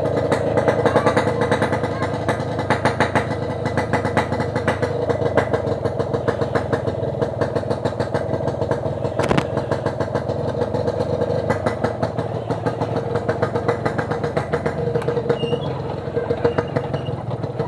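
Yamaha RX-King 135cc two-stroke single-cylinder engine running at low, steady throttle through an aftermarket 'packing power' exhaust. There is a single sharp click about nine seconds in.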